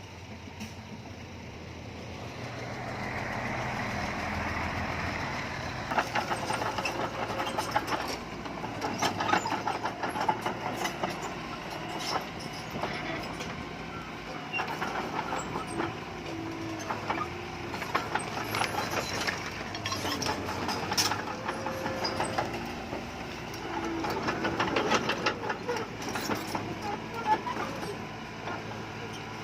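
Bulldozer's diesel engine running, swelling a few seconds in. From about six seconds in it is joined by steady metallic clanking and rattling, with a few short squeals.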